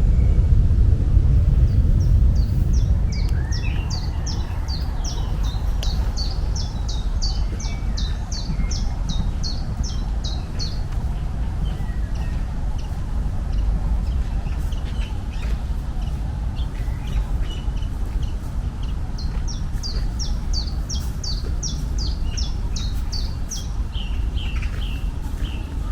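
A small songbird singing two long runs of quick, repeated high notes, about three a second, over a steady low rumble.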